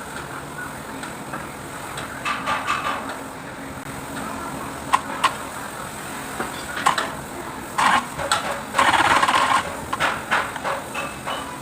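Kubota V1501 four-cylinder diesel engine running steadily at idle, with scattered knocks and rattling bursts over it, the loudest about nine seconds in.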